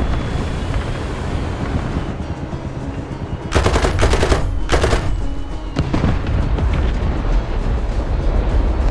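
Two bursts of rapid automatic gunfire about halfway through, the first just under a second long and the second shorter, over a steady low rumble.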